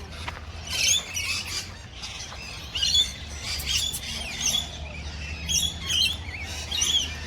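Many birds chirping and squawking, short high calls coming thick and overlapping throughout.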